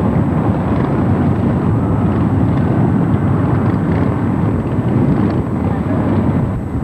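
Many motorcycles riding past in a dense procession: a steady, loud rumble of engines, with voices mixed in.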